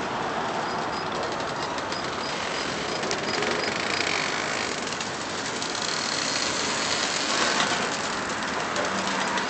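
Covered hopper freight cars rolling very slowly past at close range: a steady rumble of steel wheels on the rail, with a few light clicks in the first half.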